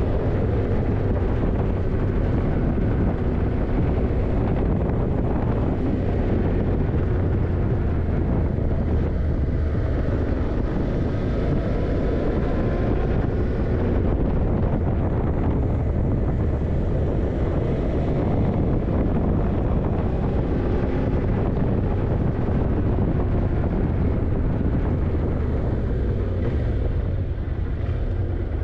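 Yamaha TDM900's parallel-twin engine running steadily under way, with wind buffeting the microphone.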